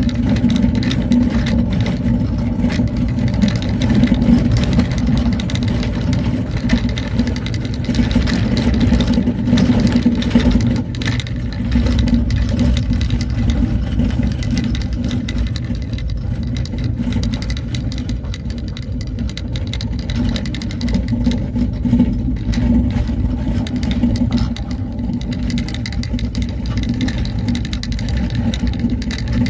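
A vehicle travelling along a road: the engine runs steadily with a low rumble, over many small knocks and rattles.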